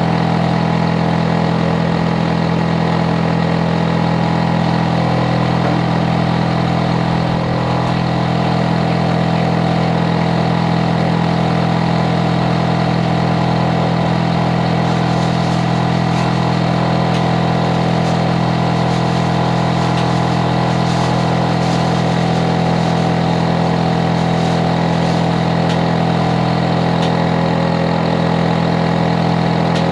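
Hitachi air conditioner outdoor unit running: a steady, loud hum, with a strong low drone and several fainter steady tones above it.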